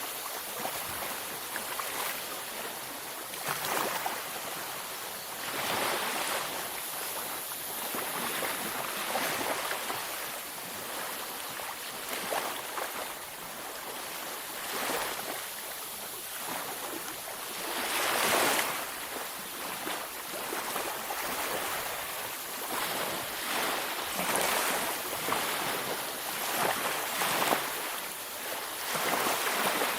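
Waves breaking and washing up a beach, swelling and falling every few seconds, one louder wave about 18 seconds in.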